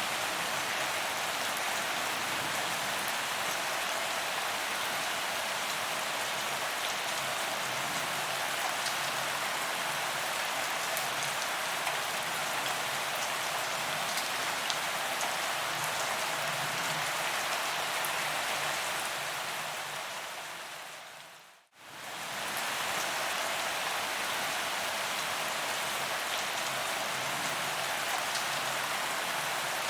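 Steady rain falling on a paved promenade, a dense even patter of drops on the ground. About two-thirds of the way through it fades away almost to nothing for a moment and swells straight back.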